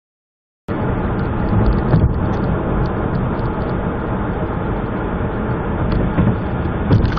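Steady road and engine noise of a moving car heard through a dash cam's microphone, cutting in abruptly from silence about a second in.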